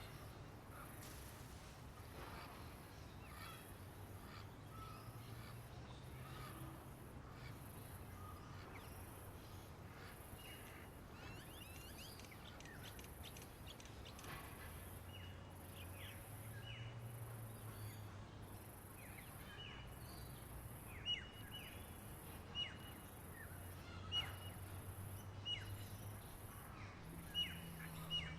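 Faint outdoor birdsong: scattered small chirps, then from about two-thirds of the way in one bird repeats a short, sharp call roughly every second and a half. Underneath is a high, evenly pulsing insect trill and a low steady hum.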